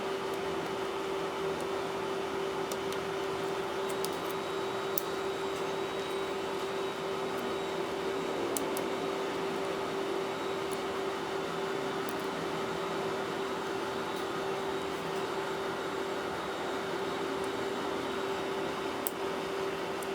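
Steady machine hum with one constant low tone over a hiss, and a few faint clicks scattered through it.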